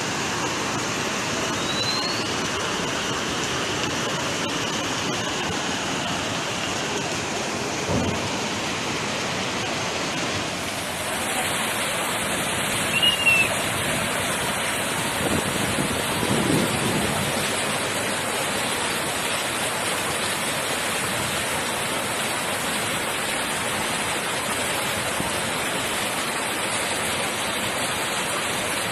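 Floodwater from torrential rain rushing in a steady, loud, even noise, with a few short louder knocks about halfway through.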